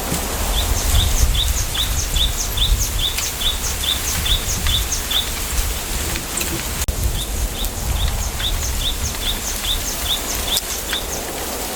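A small bird repeating one short high note, about two and a half times a second, in a long run. It pauses for a couple of seconds past the middle, then starts again. Underneath is a steady low rumble of wind in the bamboo grove.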